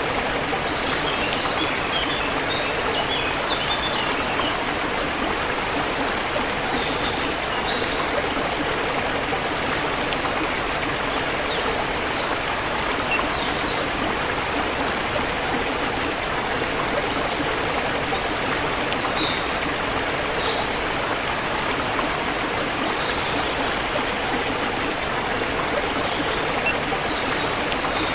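Forest river flowing in a steady rushing wash, with small birds chirping briefly here and there above it.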